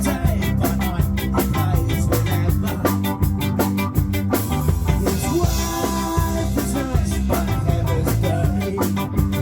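A band playing live at rehearsal, with a drum kit keeping a quick, even beat under bass and guitar; a cymbal wash rings out about four and a half seconds in.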